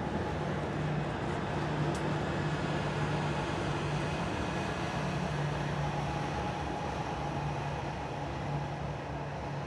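Freight train of covered hopper cars rolling past, making a steady rumble of wheels on rail, with a steady low diesel hum underneath; near the end a BNSF diesel locomotive in the train comes by.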